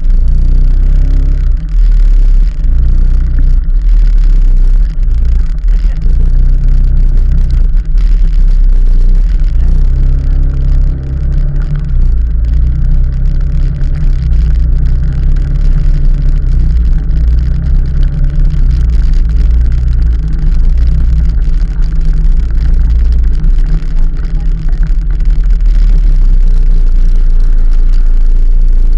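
Heavy low rumble of wind buffeting the action camera's microphone during a ride, with the vehicle's running noise underneath.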